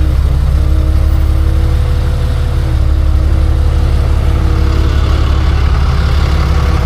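Tow truck engine running with a steady low drone. A rushing noise grows about five seconds in.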